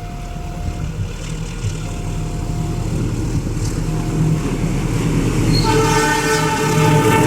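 An approaching diesel train, its engine running and growing louder, sounds its horn once for nearly two seconds near the end.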